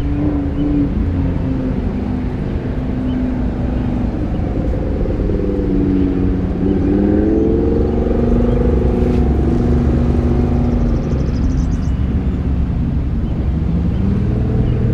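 Car engine and road noise, steady at first, with the engine pitch rising and falling between about six and nine seconds in as the car speeds up.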